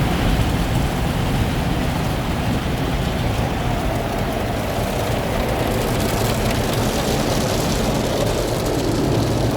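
Soft-touch automatic car wash at work on a van, heard from inside the vehicle: a steady, dense noise of water and soap spraying and cloth brushes and machinery running over the body.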